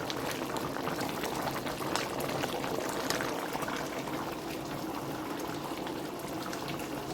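A pot of curry chicken simmering in its sauce, bubbling steadily with fine crackles.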